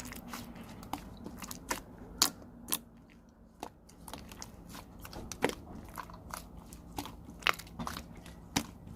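Yellow clear (translucent) slime being squeezed and poked by hand, giving sharp, irregular pops and clicks, some much louder than the rest.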